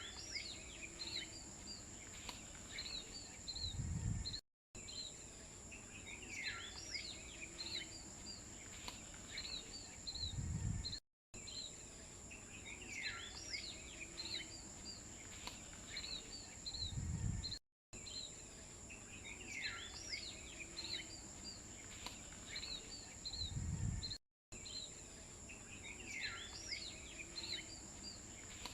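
Looped nature ambience: birds chirping over a steady high insect drone. The same short clip repeats about every six and a half seconds, each time ending in a brief low rumble and then cutting out for an instant.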